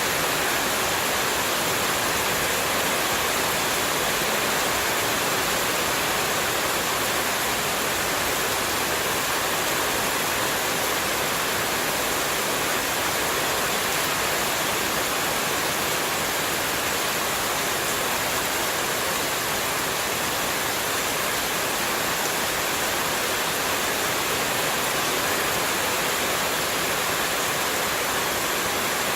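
Steady, unbroken rush of running water, played as continuous white noise with no change in level.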